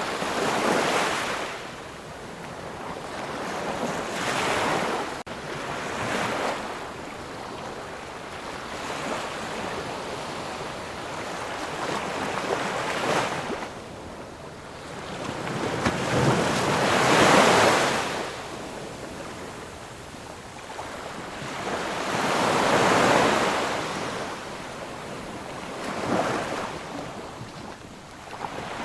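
Sea surf: waves breaking and washing in, one after another, each a swell of rushing noise that builds and fades over a second or two. The loudest wave comes just past the middle.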